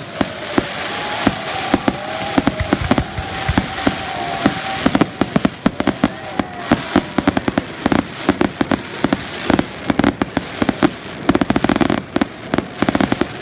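Aerial fireworks bursting and crackling, a dense run of sharp pops and cracks that thickens into a rapid barrage near the end, with short gliding whistle-like tones during the first few seconds.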